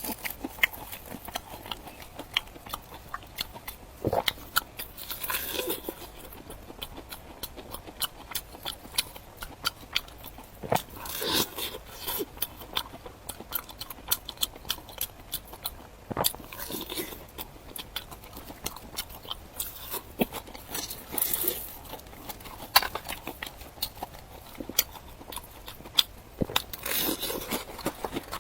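Close-up eating of a crunchy food: a bite or crunch every few seconds, with many small sharp crackles and chewing in between.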